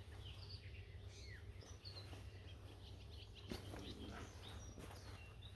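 Faint outdoor birdsong: scattered short chirps and tweets over a steady low rumble, with a soft click about three and a half seconds in.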